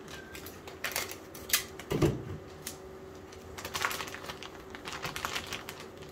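A plastic mushroom grow bag being handled and turned over: scattered crinkles and clicks of the plastic, with a soft thump about two seconds in.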